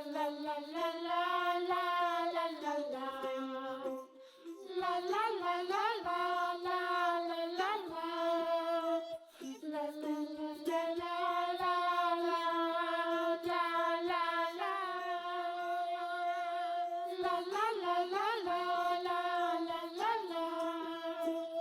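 Quiet background music with a child's singing voice carrying a melody of held notes, with a couple of short breaks between phrases.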